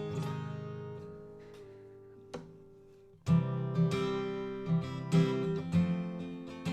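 Acoustic guitar: a strummed chord rings out and fades away over about three seconds, with one short pluck near the end of the fade. Then steady rhythmic strumming starts up again.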